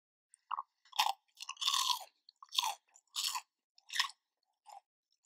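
Close-miked crunchy chewing of a crispy Cheetos-crusted fried popcorn chicken piece, about seven sharp crunches starting around half a second in.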